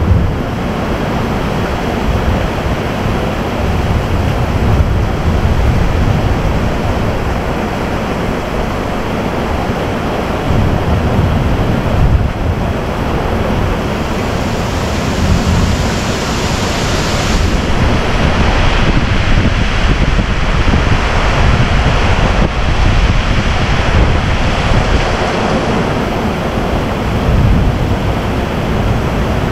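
Heavy thunderstorm rain pouring down in a steady hiss, with a low rumble of wind buffeting the microphone.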